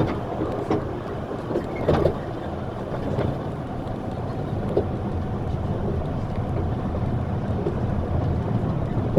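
Steady low rumble of a vehicle in motion, with wind on the microphone and a few short knocks.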